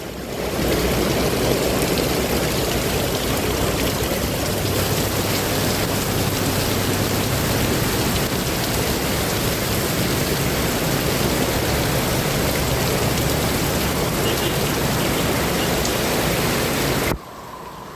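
Heavy rain pouring down in a thunderstorm, a loud steady hiss. It cuts off suddenly near the end.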